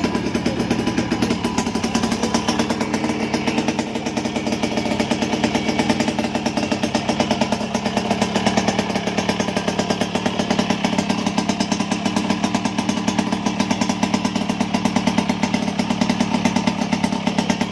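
Motorcycle engine running steadily at a fast, even beat.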